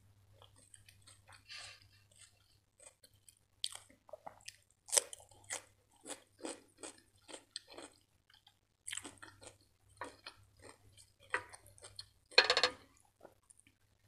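Close-miked eating sounds: a person chewing a mouthful of rice and raw cucumber, with crisp crunching chews about two a second. A longer, louder burst of noise comes near the end.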